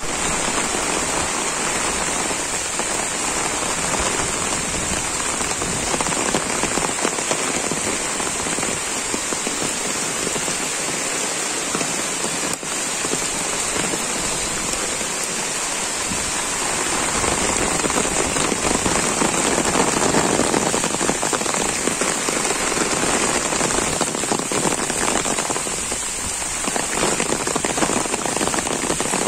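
Torrential rain falling steadily on grass, leaves and puddles: an even, dense hiss that swells a little about two-thirds of the way through.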